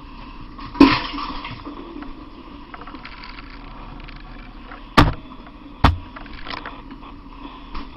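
Three sharp knocks, about a second in, at about five seconds and just before six seconds, over a steady background hum.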